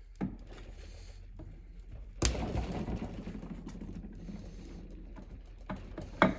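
Metal parts being handled on the tractor's transmission case: a sharp clank about two seconds in, then a second or so of rattling and scraping, with lighter clicks and a sharp tap just before the end.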